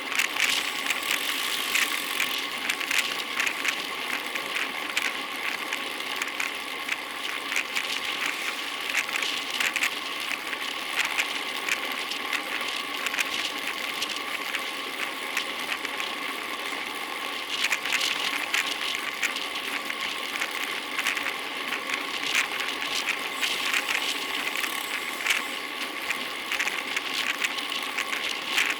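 Road bicycle in motion: continuous rattling and clicking over road noise, with a steady thin whine underneath.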